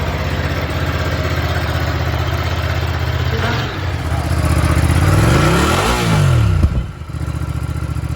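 Ducati Multistrada 950's 937 cc L-twin engine idling through its exhaust, then revved once about halfway, the pitch rising and falling, with a short sharp pop as the revs drop before it settles back to idle.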